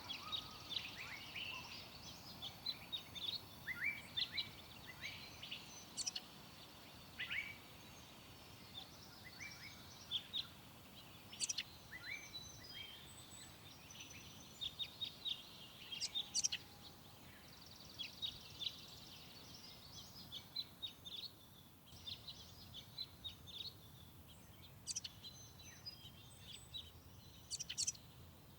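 Several songbirds calling and singing in a forest: short, high chirps and quick downward-sweeping notes scattered throughout, over a faint steady background hiss.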